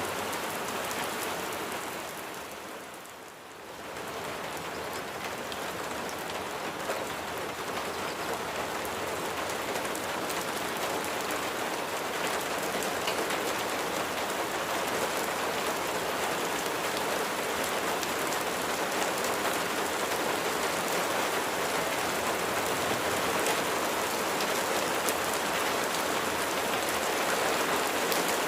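Steady rain falling, an even dense hiss of drops. The sound dips briefly about three seconds in, then returns and grows slightly louder.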